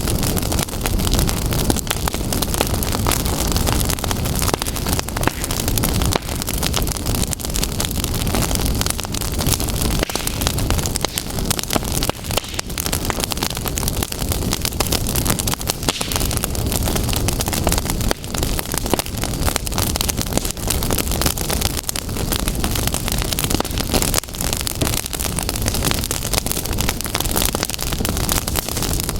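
Sparks crackling steadily: a dense, unbroken run of small pops and snaps over a rushing hiss.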